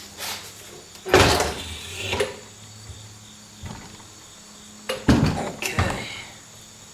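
A series of hard knocks and clanks from chassis parts and tools being handled, in two loud clusters about a second in and about five seconds in, over a faint steady hum.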